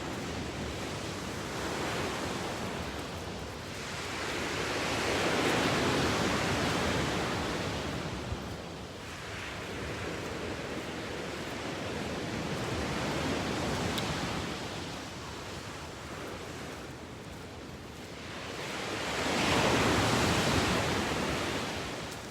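Ocean surf: waves breaking and washing in, swelling loudest twice, with some wind on the microphone.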